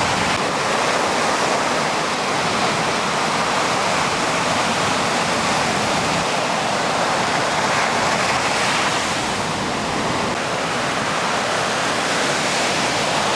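Steady rushing of ocean surf, an even roar of breaking water that swells slightly about two thirds of the way through.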